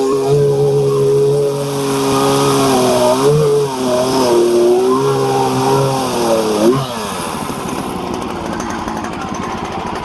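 Two-stroke chainsaw at high revs cutting a knot off a log, its pitch dipping several times as the chain bites, then dropping to idle about seven seconds in.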